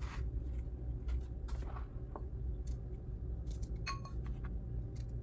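Kitchen knife cutting strawberries on a cutting board: scattered, irregular taps and clicks, with one brief ringing clink near the end.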